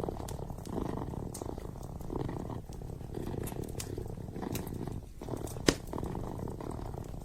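Kitten purring close up, a steady low rumble that swells and eases with each breath, over a crackling wood fire in a fireplace with scattered pops and one loud sharp crack about three-quarters of the way through.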